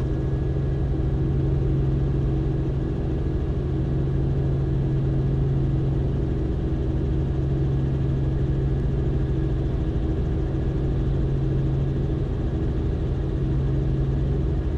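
Robinson R44 helicopter's engine and main rotor running at a steady, unchanging drone with a strong low hum.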